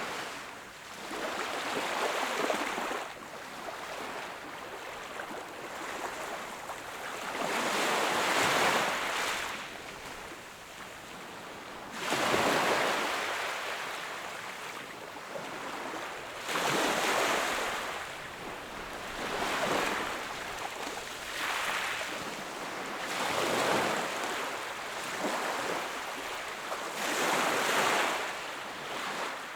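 Small waves breaking on the shore and washing back, each one swelling and fading every three to four seconds, the loudest surge arriving sharply about twelve seconds in.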